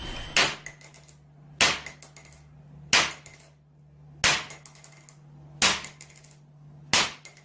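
A sharp knock repeating about every second and a third, each followed by a few small rattling clicks, over a steady low hum.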